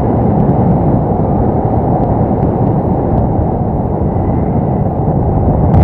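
Wind buffeting the microphone of a paraglider in flight: a loud, steady rumble with no let-up.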